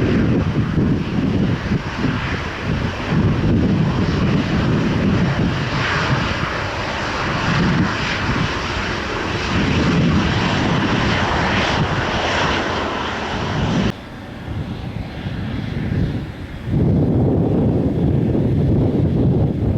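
Boeing 787-10 jet engines at takeoff power, rumbling, with wind buffeting the microphone. About 14 seconds in the sound cuts off abruptly to quieter wind noise, and a loud low jet rumble starts again suddenly about three seconds later.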